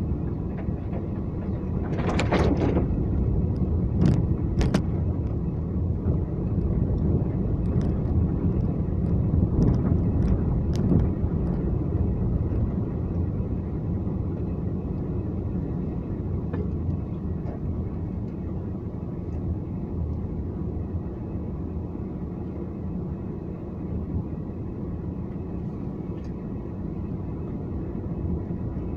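A car being driven: a steady low rumble of engine and road noise, with a few short clicks or knocks in the first dozen seconds.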